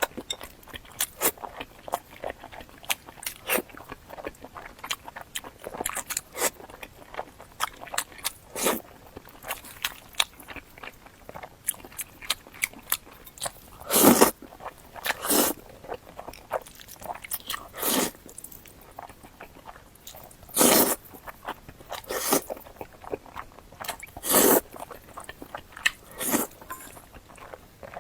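Close-miked eating of boiled dumplings and spicy fire-chicken noodles: irregular chewing with many small wet mouth clicks, and several louder bites spread through the second half.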